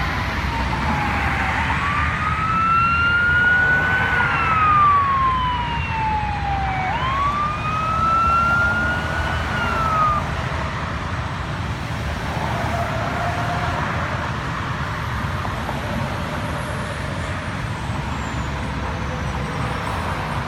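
Fire engine siren wailing over the rumble of a 2008 Sutphen rescue pumper on the move, rising and falling in pitch about three times. The siren stops about ten seconds in, leaving the truck's engine and road noise.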